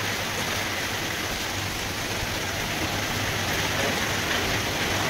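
Monsoon rain falling steadily, an even hiss.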